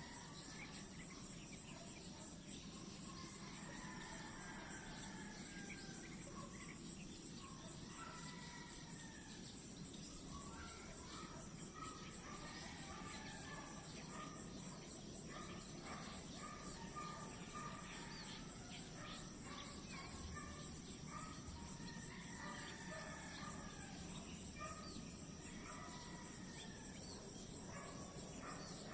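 A steady high-pitched insect chorus with many short bird chirps and whistles scattered over it.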